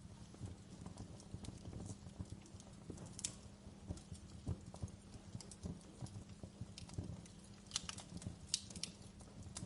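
Wood fire burning in a fireplace, crackling with irregular small pops over a low steady rumble, and a few sharper, louder snaps near the end.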